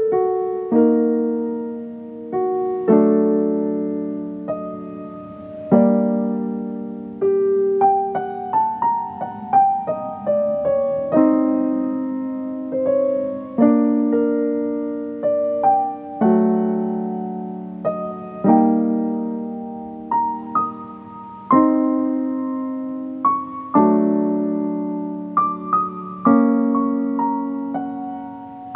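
Solo piano playing a slow, gentle piece: sustained chords struck every two to three seconds, each fading away, with a melody of single notes moving above them.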